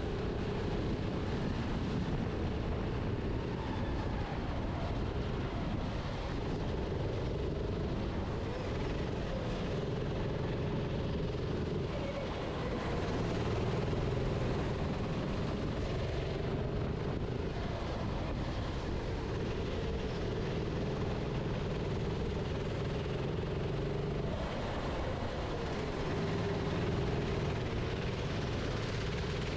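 Onboard sound of a racing kart's engine running at speed on track, its note wavering slightly up and down through the corners over a constant rumble of wind and road noise.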